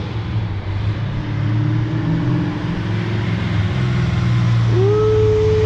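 Supercharged 1970 Chevelle's engine rumbling as the car drives up the street. About five seconds in, a whine climbs sharply in pitch and then holds steady.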